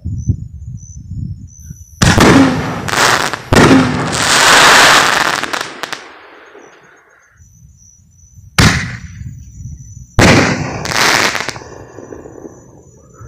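Aerial fireworks going off: about six sharp booms at uneven intervals, each followed by a hissing, crackling tail, the longest trailing off over about two seconds.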